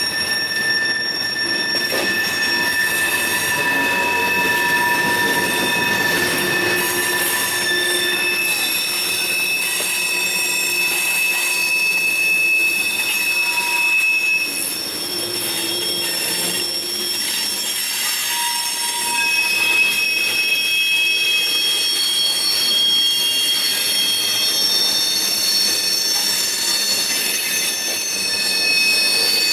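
Freight train cars rolling past with wheel squeal: several high, steady squealing tones that overlap, fade and return over the rolling noise of the wheels on the rails.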